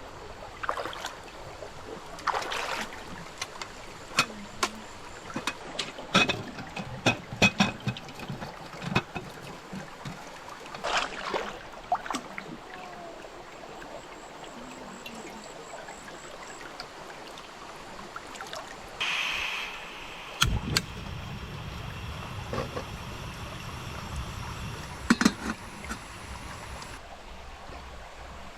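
A stream trickling steadily, with scattered sharp clicks and knocks throughout and a short hiss about two-thirds of the way in.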